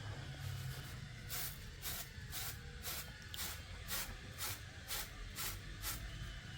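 A run of about ten rhythmic swishing strokes, about two a second, starting a little over a second in and stopping near the end, as of repeated brushing or scraping by hand.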